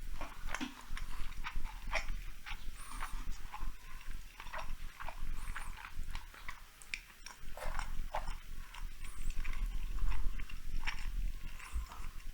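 A person chewing a mouthful of sushi roll close to a lavalier microphone: irregular wet mouth clicks and crackles, several a second.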